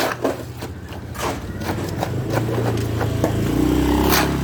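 A motor engine running, growing louder toward the end and then easing, with scattered knocks and clatter.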